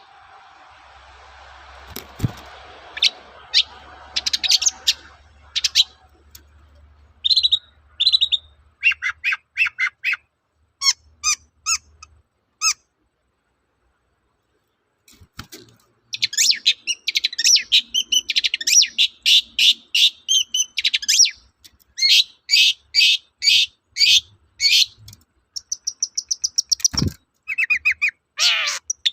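Long-tailed shrike (cendet) singing: rapid runs of short, sharp, high notes repeated several times a second, broken by a pause of about three seconds in the middle and growing denser in the second half.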